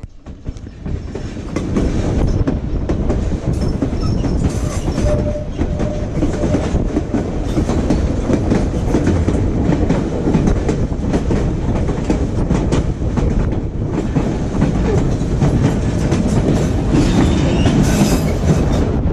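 Railway train running steadily, a dense rumble of wheels on track with many short clicks scattered through it.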